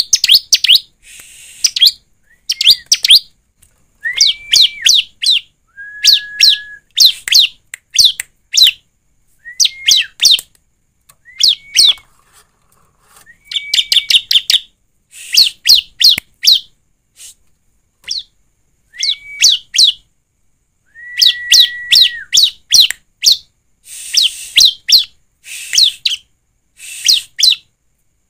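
Bar-winged prinia (ciblek) singing: phrases of rapid, high, descending chirps, some opening with a short held whistle, repeated every second or two with brief pauses between.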